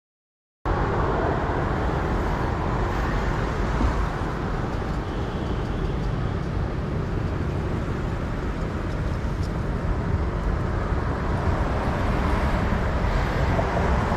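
Steady wind rush and road noise from a motorbike being ridden, cutting in abruptly a moment in after silence.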